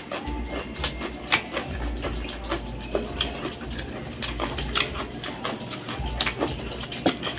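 Close-up chewing and mouth sounds of someone eating rice and a bitter melon salad by hand: irregular wet smacks and clicks, several a second.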